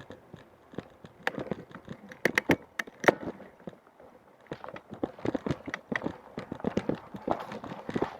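A run of irregular sharp clicks and knocks, thickest about one to three seconds in and again from about four and a half seconds on, with a quieter stretch between.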